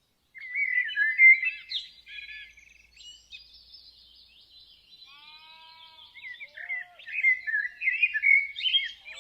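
Birdsong: a rapid, varied stream of chirps and warbles, loud at first, softer through the middle and loud again near the end. A lower, arching call comes in briefly about halfway through.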